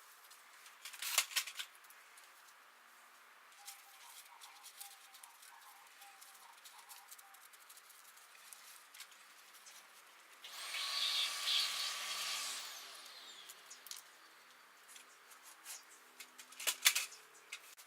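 Tools at work on a motorcycle engine: sharp metallic clicks about a second in and again near the end, and a small power tool running for about two seconds in the middle.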